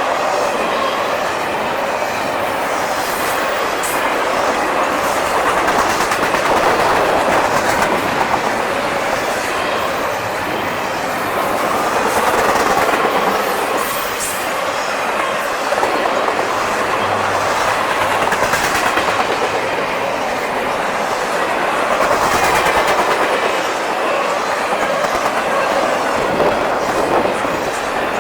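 Freight cars of a long CSX double-stack intermodal train rolling past, a steady rumble of steel wheels on rail that swells and eases every few seconds.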